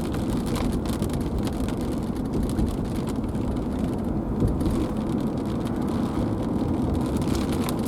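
Steady low rumble of a car driving in heavy rain, heard from inside the cabin, with rain and wind noise coming in through an open rear window.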